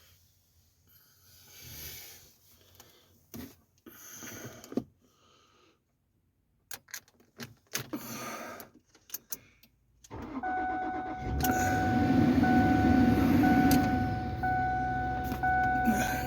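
Rustling and small clicks inside a Ford Edge, then about ten seconds in the engine cranks and starts on a cold start at about 8 below zero and keeps running, with a dashboard warning chime dinging about once a second over it.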